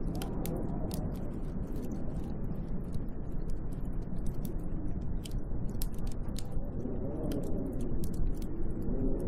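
Snowstorm wind blowing steadily in a low rush, swelling in gusts toward the end, with scattered light ticks throughout.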